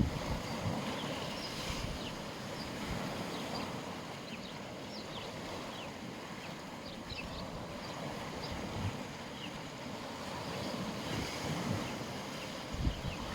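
Sea waves washing onto a beach, a steady wash of surf, with wind buffeting the microphone in gusts near the start and near the end.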